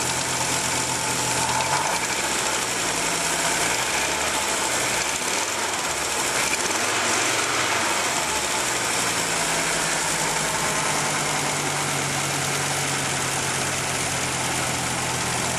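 1987 Audi 4000S KX inline five-cylinder engine running with a rapid tapping from the valvetrain, the intermittent lifter tick the owner is worried about. Engine speed rises and falls several times in the first half, then settles to a steady idle.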